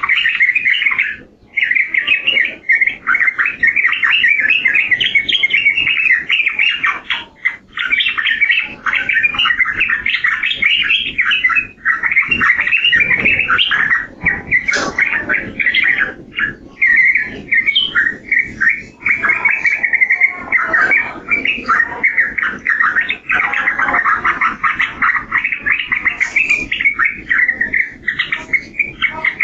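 Yellow-vented bulbul (trucukan) singing a long, continuous run of rapid, bubbling, chattering phrases, broken by a few short pauses.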